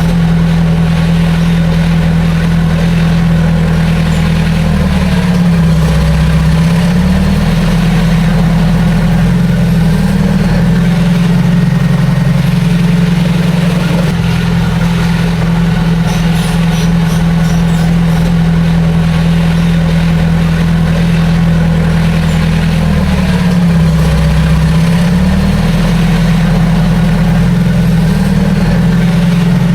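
Heavy diesel engine running steadily, its pitch dipping briefly twice, about five seconds and twenty-three seconds in.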